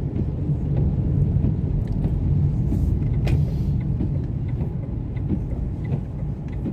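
Car engine and tyre noise heard from inside the cabin while driving on a wet road: a steady low rumble, with a short swish about three seconds in.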